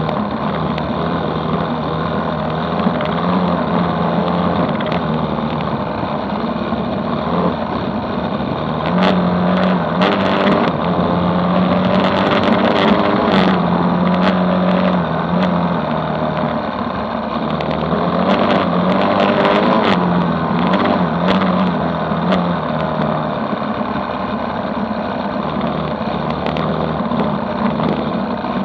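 Dirt bike engine running at speed on a dirt road, its note stepping up and down with the throttle. Scattered sharp clicks come through the middle stretch.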